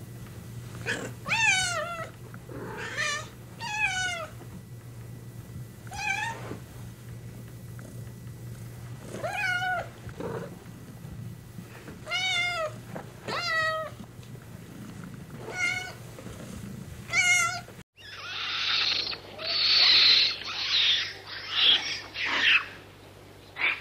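A kitten meowing over and over: about ten short, high, bending meows a second or two apart. Then, after a sudden cut, a run of harsh, noisy animal calls.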